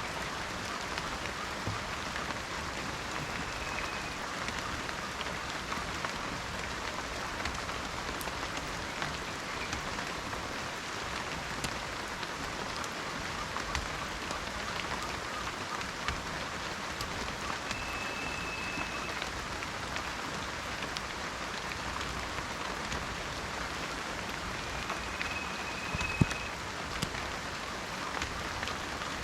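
Steady rain falling in a forest, a dense even hiss with many individual drops ticking close by. Three brief high whistled notes sound through it, and one louder single drop or knock stands out near the end.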